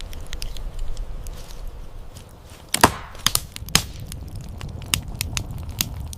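A run of irregular sharp knocks and cracks, like wood being chopped or broken, loudest in a close cluster about halfway through.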